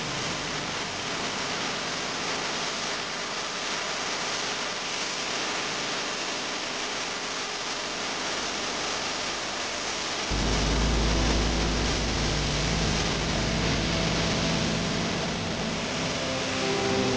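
Chicken pieces frying in curry paste in a non-stick pan: a steady, dense sizzle, stirred with a wooden spatula. About ten seconds in, a low rumble joins the sizzle.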